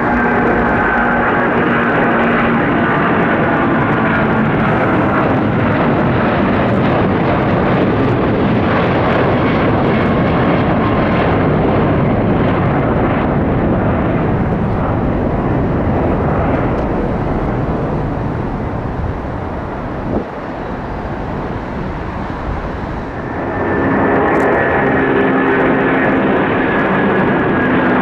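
Jet airliner engines: a loud, steady roar with whining tones. It eases off about two-thirds of the way through, then the roar and whine of a second jet build again near the end.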